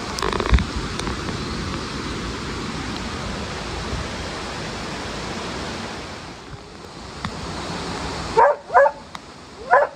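Rushing mountain-stream water, with a single knock about half a second in. Near the end an Australian Labradoodle barks three times, short rising yelps.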